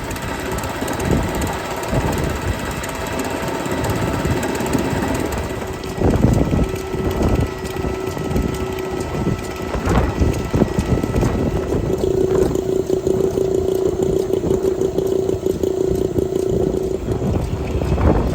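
Vintage stationary engine running with uneven firing knocks, joined about six seconds in by a steady humming tone that grows stronger in the second half.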